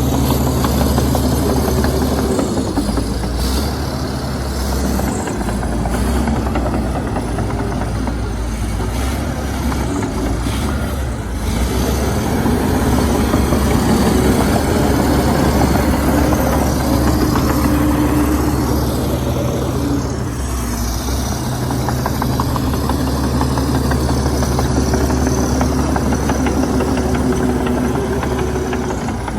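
Heavy diesel engine of earthmoving machinery running under changing load, its level swelling and dipping several times.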